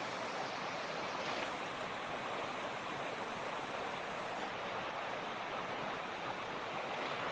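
Mountain creek (torrent) rushing and splashing steadily over rocks, an even, continuous water noise.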